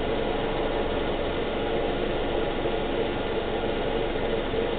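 2012 Subaru Outback's flat-four engine idling steadily, running to bring freshly filled CVT fluid up to temperature.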